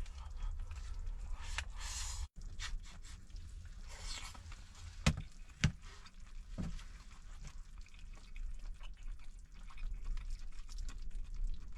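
Eating and drinking sounds at close range: small clicks and sips, with two sharp knocks about five seconds in, over a steady low rumble of strong wind outside.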